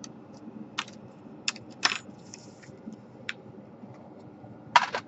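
Scattered sharp clicks and taps of small hard parts being handled on an opened laptop, about six in all, with a brief scrape a little after two seconds and the loudest double click near the end.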